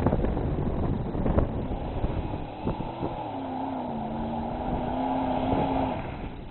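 Dodge Dakota pickup's engine running hard while the truck drives through a mud hole, with a few sharp knocks in the first second and a half, then a held, slightly wavering engine note until it eases off near the end.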